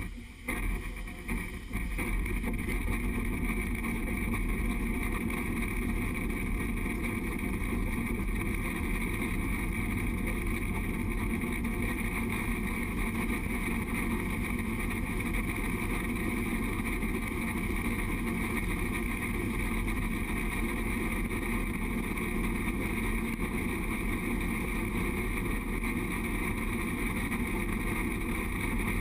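Train running along the track, heard from the front of the locomotive: a steady rumble that settles to an even level about two seconds in.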